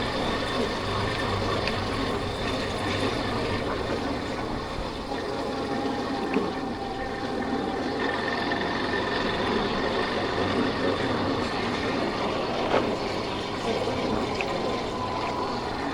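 Yamaha Factor 150 single-cylinder motorcycle engine running steadily under way, mixed with steady wind and road noise, with a couple of faint clicks.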